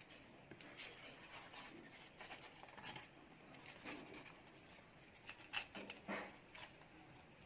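Faint scratching, rustling and light clicking of small hand work on the model, with a few sharper ticks about five and a half to six seconds in.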